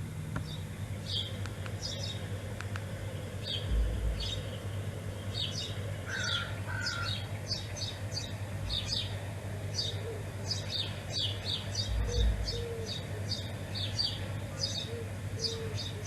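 Small birds chirping: many short, high chirps in quick succession, with a few lower calls mixed in and a steady low hum underneath. Two brief low thumps, about four seconds in and again about twelve seconds in.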